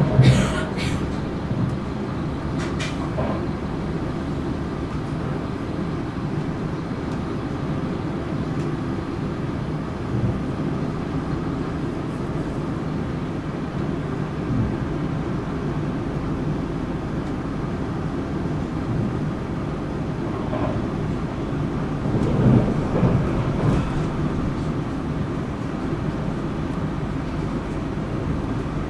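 Passenger train running along the track, a steady low rumble of wheels and carriage. There is a sharp knock at the start and a louder spell of clunks about two-thirds of the way through.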